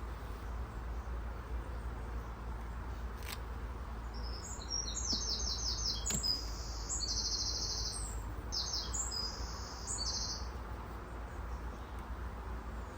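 A small songbird singing a series of quick trilled phrases of rapidly repeated high notes, starting about four seconds in and stopping near ten seconds, over a steady low background rumble.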